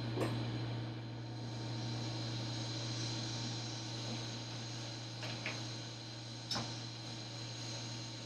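A few light clicks and knocks as workpiece blocks are set into a machining fixture, with one sharper click about six and a half seconds in, over a steady hum.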